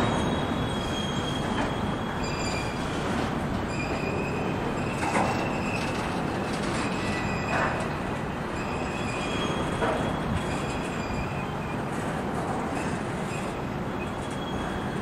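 Double-stack intermodal train's loaded well cars rolling past with a steady rumble, and high wheel squeal that comes and goes. A few short knocks from the cars are heard around the middle.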